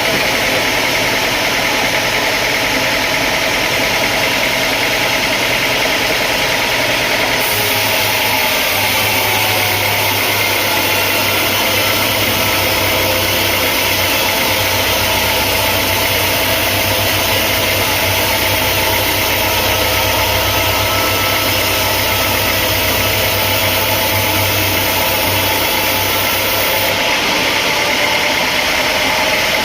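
Sawmill machinery engine running steadily at a constant speed. Its low hum changes abruptly about seven seconds in and again near the end.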